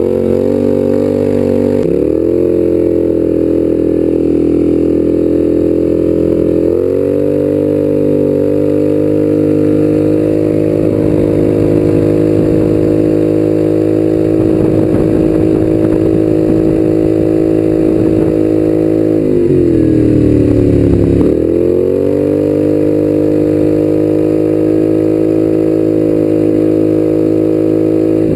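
Polaris 850cc parallel-twin four-stroke engine driving a go-kart, running loud and steady under throttle. The pitch steps up twice early on, then drops off briefly and climbs back about twenty seconds in.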